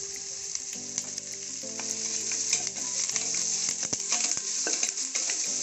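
Chopped onions, tomatoes, green chillies, coriander and curry leaves sizzling in hot ghee in a pressure cooker, stirred with a wooden spatula that scrapes and taps against the pot.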